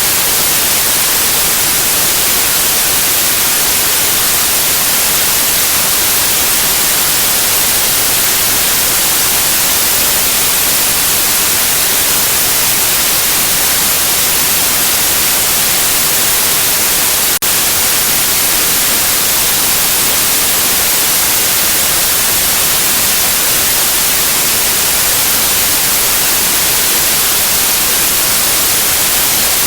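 Steady white noise, a loud even hiss weighted toward the high end, with one brief click and dropout a little over halfway through.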